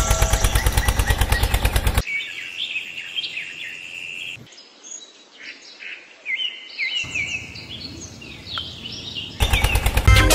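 Birds chirping in short, quick rising and falling calls over a quiet background. A loud, fast, even pulsing sound cuts off about two seconds in, and loud music cuts in near the end.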